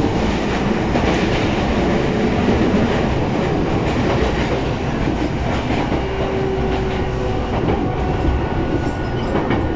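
Running noise heard inside a JR East E233-0 series electric train car: a steady rumble of wheels on rail with clickety-clack from the rail joints, while another train passes close alongside.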